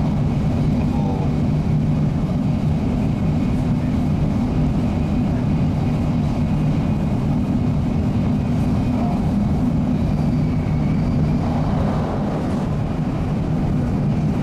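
Shinkansen high-speed train cruising at about 270 km/h, heard as a steady low rumble inside the passenger cabin.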